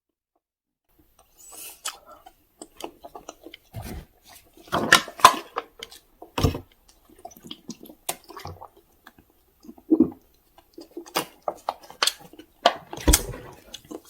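Irregular clicks, taps and rustles of tableware being handled, with a few louder knocks and thumps.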